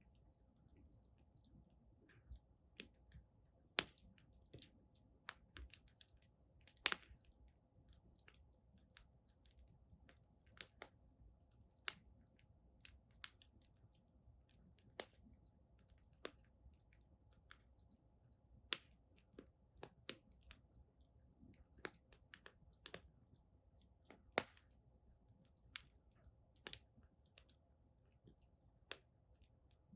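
Wood fire crackling in a fire pit: sharp, irregular pops and snaps, about one a second, some much louder than others, over a faint steady low hum.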